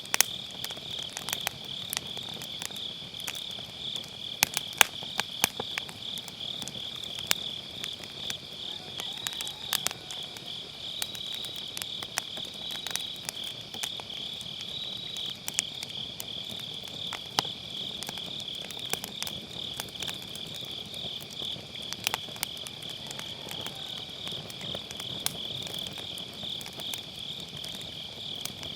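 Crickets and other autumn grass insects chirring in a steady high trill, with sharp, irregular pops and crackles from burning firewood.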